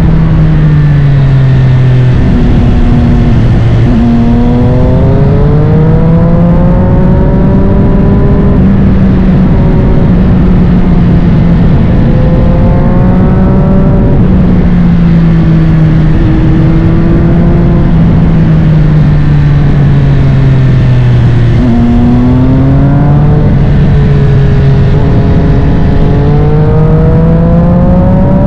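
Triumph Street Triple 765 RS inline-three engine through a Spark Grid-O full exhaust, revving up and dropping back over and over as the bike accelerates, shifts and rolls off the throttle.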